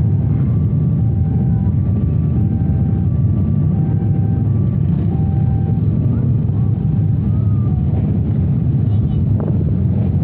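Steady low rumble of a passenger train running, heard from on board.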